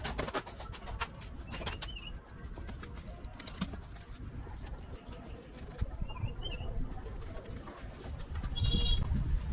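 A small bird chirping twice in short curled calls, over scattered light clicks and taps and a low rumble; a brief high whine near the end.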